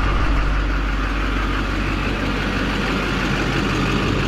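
Duramax diesel V8 truck engine idling steadily with a low rumble, running with its newly replaced fuel-filter water sensor.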